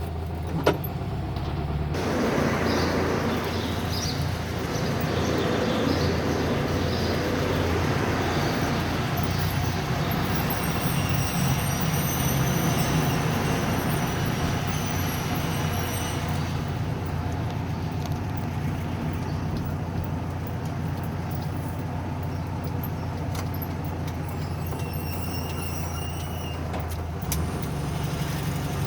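1970 VW Beetle's air-cooled flat-four engine running steadily, heard from inside the car, with a single click less than a second in. Broad road and traffic noise swells about two seconds in and eases after about sixteen seconds.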